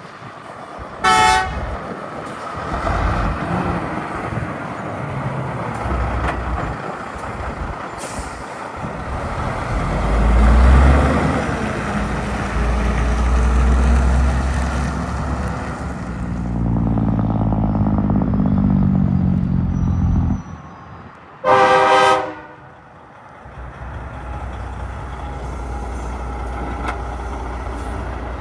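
Trucks passing on a road, their engines rising and falling as they go by. A truck horn gives a short toot about a second in and a longer, louder blast about three-quarters of the way through.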